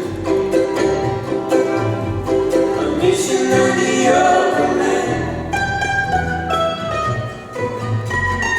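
Live acoustic band playing an instrumental passage: quick plucked string notes over sustained lower tones, with no lyrics sung.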